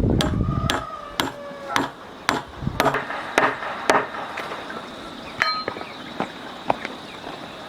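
A series of sharp, hard knocks, roughly two a second, as of something being struck repeatedly. The knocks grow sparser and fainter toward the end. A low rumble stops just under a second in.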